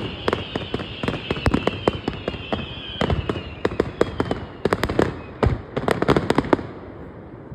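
Aerial fireworks going off in quick bangs and crackles, with a long whistle slowly falling in pitch underneath; the bursts thin out and die away after about six seconds.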